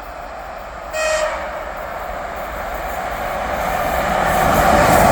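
ChS7 electric locomotive giving a short horn blast about a second in as it approaches at speed, followed by the noise of the oncoming passenger train growing steadily louder toward the end.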